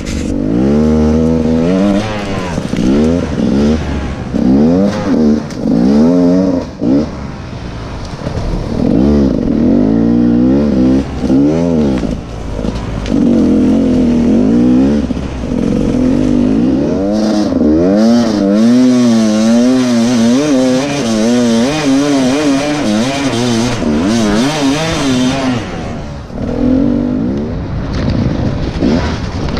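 Enduro dirt bike engine, heard from the rider's camera, revving up and down over and over as the throttle is worked while riding a trail.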